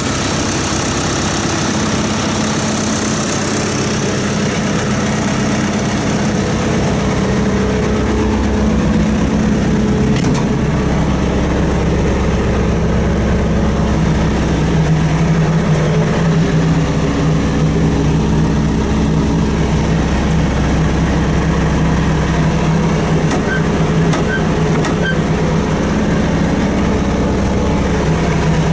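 New Holland T4050 tractor's diesel engine running steadily, its pitch shifting lower about a third of the way in, with a single sharp click around then.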